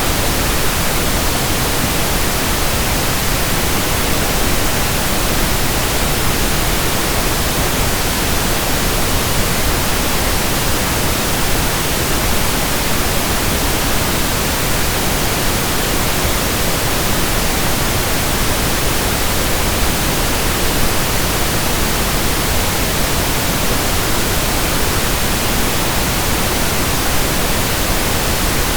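Steady synthesized pink noise: an even hiss that does not change.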